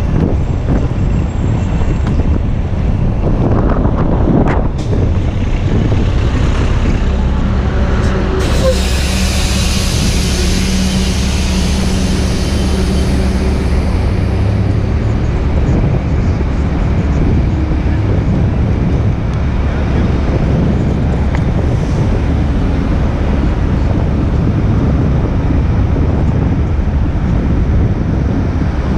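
Street traffic and wind rushing over a bike-mounted action camera's microphone while cycling through city traffic, a steady loud rumble. About eight seconds in, a nearby vehicle's engine hum and a long hiss rise over it for several seconds, then fade.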